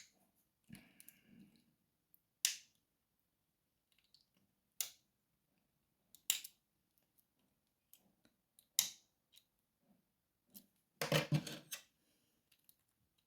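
Metal lock picks and a tension wrench working inside a lock: single sharp metallic clicks every couple of seconds, then a short burst of rattling clicks near the end.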